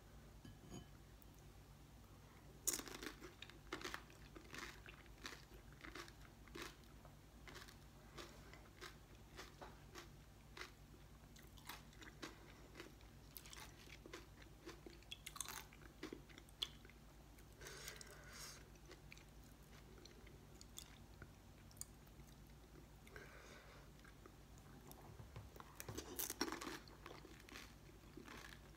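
Close-up eating sounds of pani puri: the crisp, pani-soaked puri shells crunch and crackle as they are bitten and chewed, in irregular clusters beginning about three seconds in, with a louder burst of crunching near the end.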